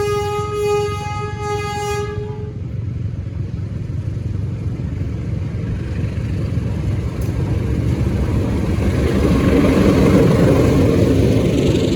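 A diesel locomotive's horn sounds one steady note that cuts off about two seconds in. Then a train runs by with a rumble of wheels on rail that grows louder toward the end.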